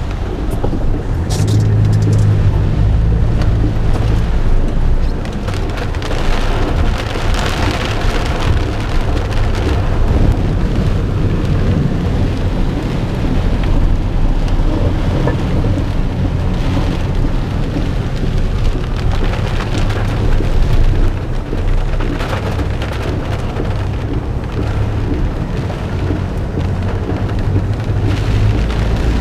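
Heavy thunderstorm rain pouring down steadily, with a low rumble underneath that swells about two seconds in and again near the end.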